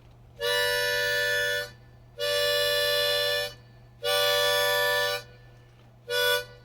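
Harmonica playing four long held chords, each about a second long with short breaks between, in an instrumental break between verses.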